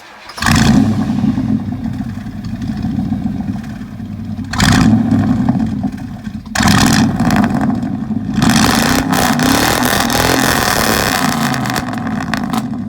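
Chevy 5.7L V8 with no catalytic converters, straight pipes and dual 12-inch glasspack mufflers, starting up and being revved hard several times, with a long held rev near the end.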